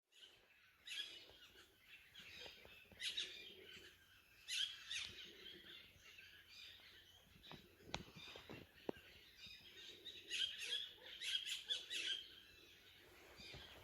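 Birds chirping in scattered short bursts of high notes, with a couple of sharp clicks about eight and nine seconds in.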